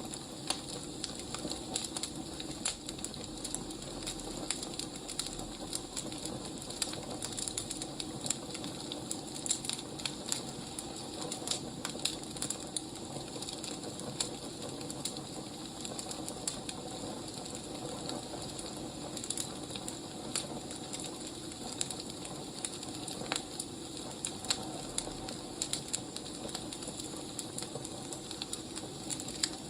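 Wood fire crackling: a steady hiss with many small irregular pops and snaps.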